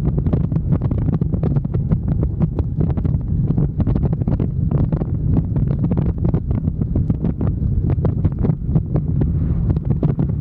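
Wind buffeting the microphone in dense, irregular gusts over the low, steady rumble of a motorcycle under way.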